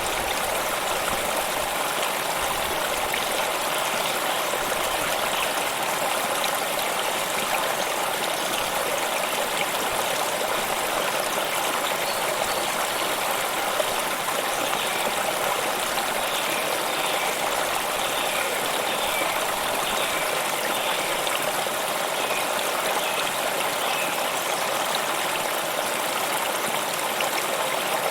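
A stream of running water flowing steadily, an even continuous rush with no breaks.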